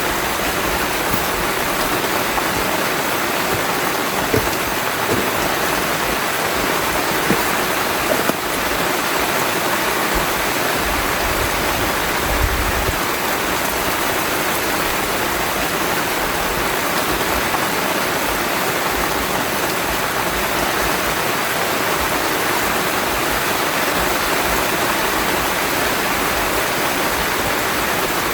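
Heavy rain falling steadily, with a few small knocks.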